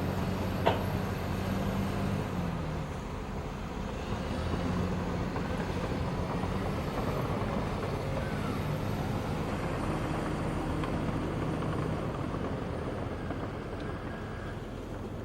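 Heavy diesel machinery working at a levee breach: a steady low engine hum whose pitch shifts a couple of times, with one sharp knock about a second in.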